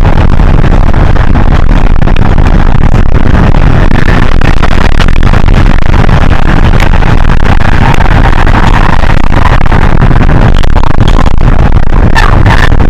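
Hino HS8JRVL-UTF city bus under way: steady diesel engine and road noise as heard inside the cabin, loud and heavy in the low end.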